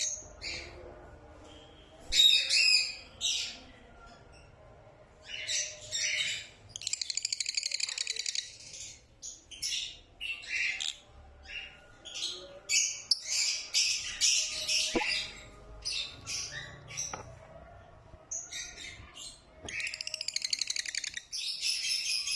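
Lovebird chicks calling in repeated bursts of high-pitched, rapidly pulsed chirps, each burst lasting up to about two seconds.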